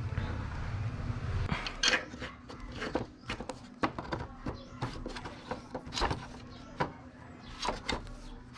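Irregular clicks and light knocks of a motorcycle clutch cable and nearby parts being handled and pushed through the bike's frame. A low rumble stops about a second and a half in.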